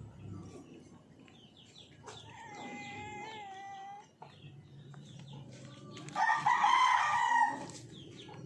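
Roosters crowing: one long crow about two seconds in, and a louder one about six seconds in. Hens cluck and short chirping calls sound around them.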